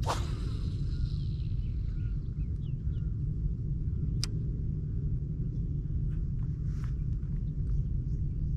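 Steady low rumble of wind buffeting the microphone on an open boat. A few faint high chirps and a sharp click about four seconds in sit over it.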